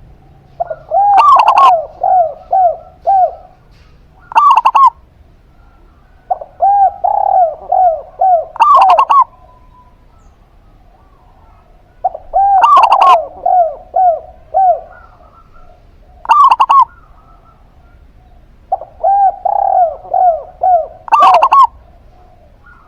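A zebra dove and a spotted dove cooing in turn. There are four phrases of five to seven quick, rolling coos, with loud, sharper single coos between them.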